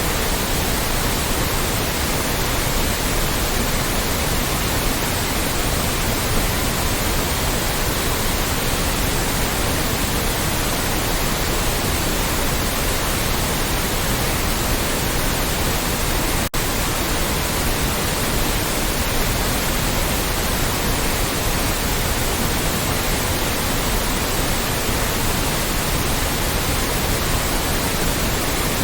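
Loud, steady white noise: an even hiss spread across all pitches, with a split-second gap about halfway through.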